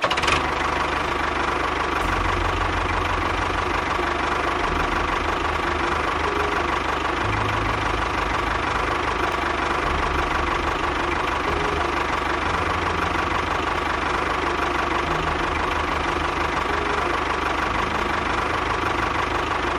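A small motor running steadily with an even whir and a steady hum.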